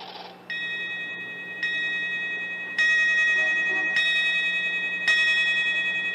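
A chiming clock strikes the hour five times, one bell-like ding about every second, each note ringing on into the next. The five strokes mean five o'clock.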